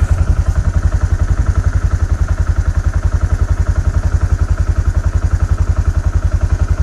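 An engine idling steadily, with a rapid, even low pulse.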